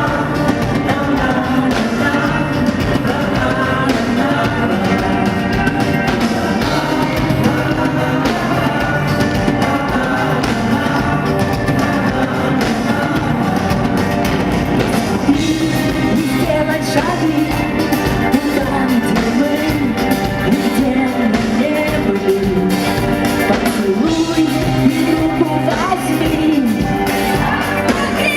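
Live rock band playing with a woman singing over it.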